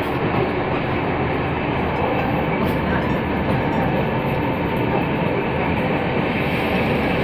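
Steady rumble and rattle of a moving passenger train, heard from inside an air-conditioned coach as its wheels run over the track.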